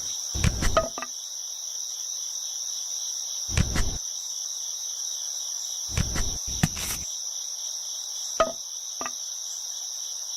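A steady, high-pitched insect drone, like crickets, with a few short knocks and taps scattered through it.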